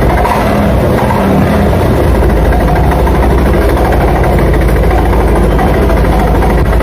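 Yamaha NMAX scooter's single-cylinder engine and CVT running at a steady idle, an even, rapid pulsing with no revving. This is the running sound being checked for an abnormal CVT noise.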